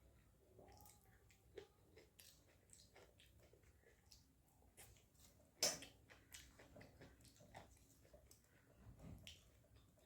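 Faint chewing of rice and curry, with wet squishing and scattered small mouth clicks, and one sharper click a little past halfway.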